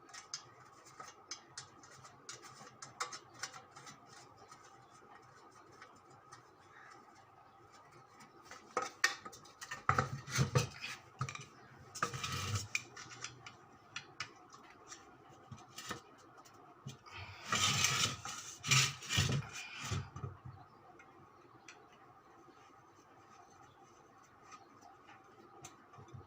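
Metal tools and parts clinking and scraping during hand work: scattered clicks, with two louder spells of clatter about ten seconds in and again around eighteen seconds in.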